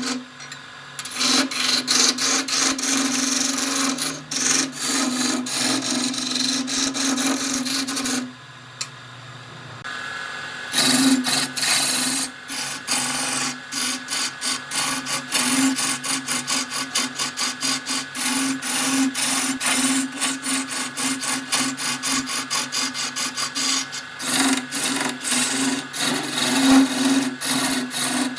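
Wood lathe running with a steady motor hum while a turning tool scrapes and cuts the spinning wood, a rough, grainy scraping. The cutting stops briefly about eight seconds in, then carries on.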